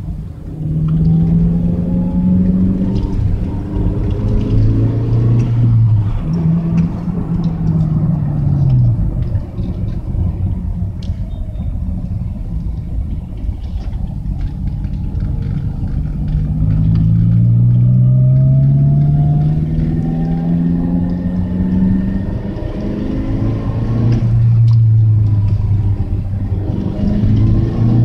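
Daihatsu Sirion exhaust through an aftermarket Tanabe muffler: a deep, rumbling engine note that climbs in pitch under acceleration several times, dropping back in between.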